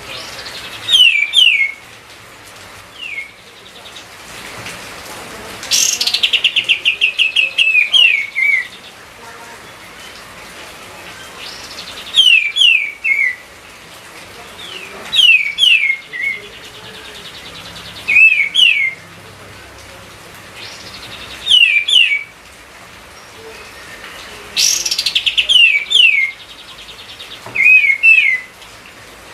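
Kapas tembak songbird singing loudly and actively: short phrases of two or three quick down-slurred whistles repeated every few seconds, with a longer fast trill twice, about six seconds in and near the end.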